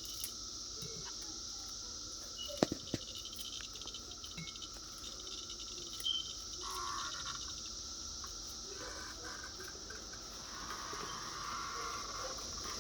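Cicadas buzzing in a steady drone that swells louder about halfway through and again near the end, with a few sharp clicks a few seconds in.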